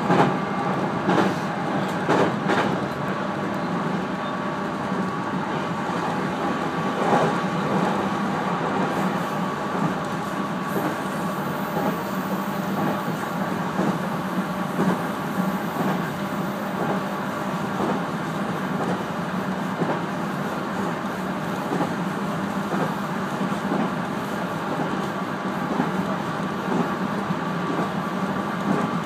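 211 series electric multiple unit running at speed, heard from inside the front car: a steady rumble of wheels on rail with a steady hum. A few sharp clicks of wheels over rail joints come in the first few seconds as it runs off the truss bridge, and once more about seven seconds in.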